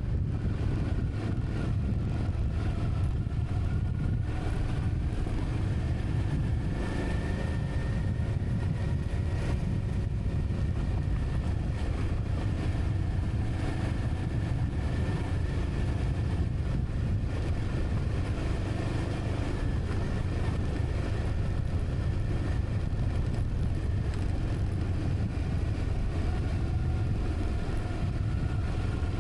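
Motor vehicle running at a steady pace, engine note drifting slowly up and down over a constant low rumble of wind and road noise.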